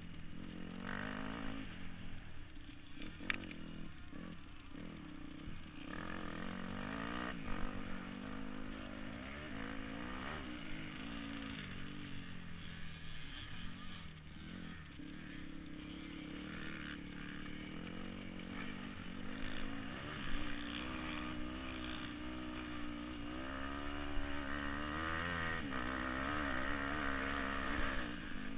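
Dirt bike engine being ridden, revving up and down, its pitch rising and falling again and again with throttle and gear changes.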